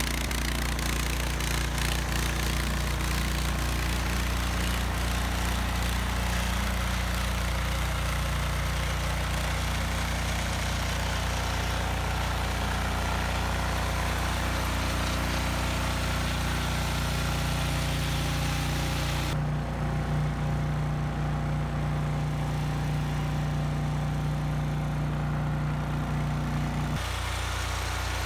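A motor engine running steadily just after being started, with a low, even hum. About two-thirds of the way in the higher hiss drops away, and near the end the hum shifts slightly.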